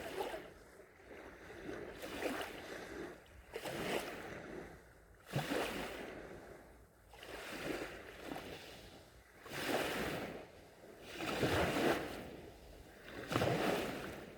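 Gentle sea waves washing onto a sandy shore. Each small wave swells and falls away, one every couple of seconds.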